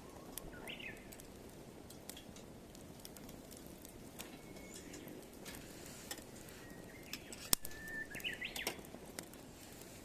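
Wood fire crackling in a small fire pit, with scattered sharp pops, one louder pop about three quarters of the way through. Birds chirp briefly near the start and again near the end.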